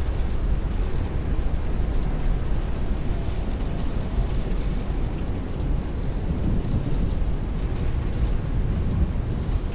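Heavy rain beating on a window pane while strong wind rushes past, one steady dense wash of noise with a deep rumble underneath.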